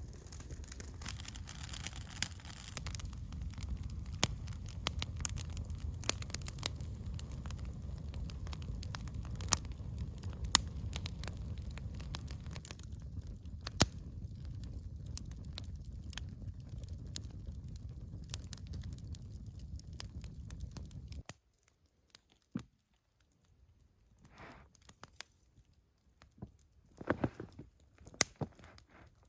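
Campfire crackling and popping over a steady low rumble, which stops abruptly about three-quarters of the way through, leaving a few faint scattered knocks and rustles.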